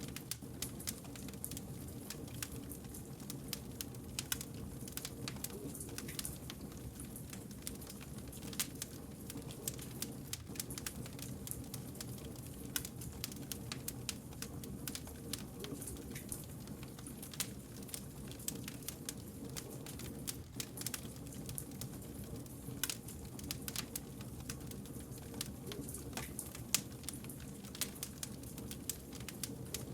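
Burning wood fire crackling, with frequent sharp irregular pops and snaps over the steady low rumble of the flames.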